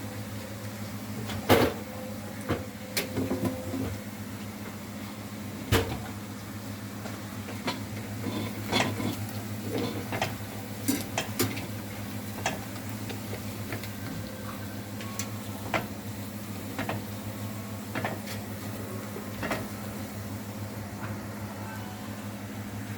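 Scattered clinks and knocks of kitchen utensils and cookware being handled, over a steady low hum.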